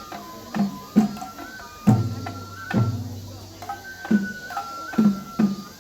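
Japanese festival hayashi for a lion dance: a high bamboo flute plays a held melody that steps between notes over taiko drum strokes about twice a second. Two deeper, heavier drum booms come near the middle.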